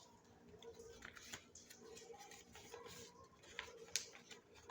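Near silence: faint room tone with scattered soft clicks and taps.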